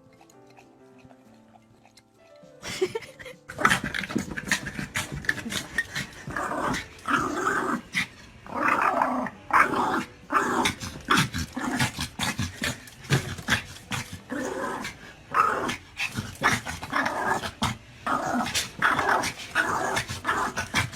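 A dog growling and barking in a long run of quick, loud bursts that starts about two and a half seconds in, after a faint opening.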